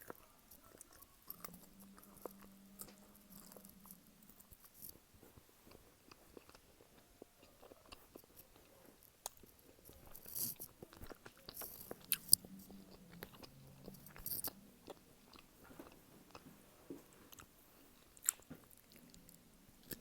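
Close-miked chewing and biting of a pepperette, a pepperoni meat snack stick: steady wet mouth clicks and chewing, broken by a few sharper bites, the loudest about twelve seconds in.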